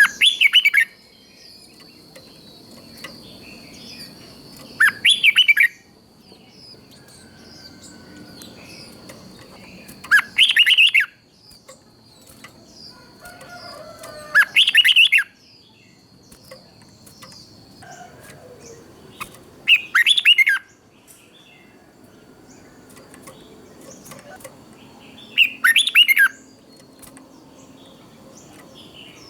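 Red-whiskered bulbul singing: a short, loud warbled phrase about every five seconds, six in all, over faint background chirps.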